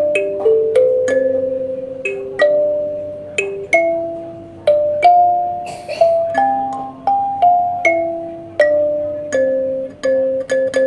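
Kalimba played by thumb, plucking a slow melody mostly as two-note pairs, a tune note over a lower note. Each pluck rings and dies away, and the last note is held ringing at the end.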